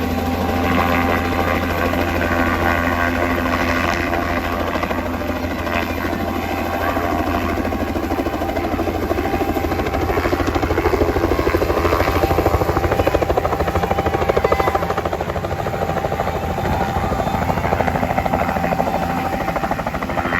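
Helicopter coming in to land close by: steady rotor-blade chop over a low engine drone, getting louder toward the middle and easing off slightly near the end.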